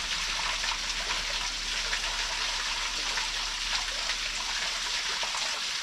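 Waterfall pouring steadily: an even rush of water with fine splashing all through.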